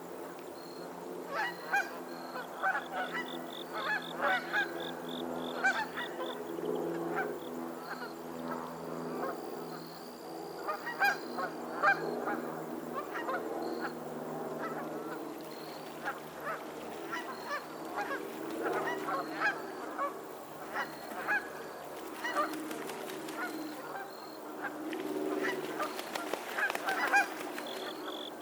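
A flock of geese honking, many short calls overlapping over a steady background of lower goose chatter.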